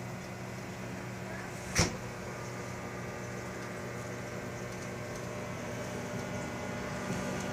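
Microwave oven running with a steady hum while a bundle of barbecue lighters burns inside. One sharp pop cuts through about two seconds in.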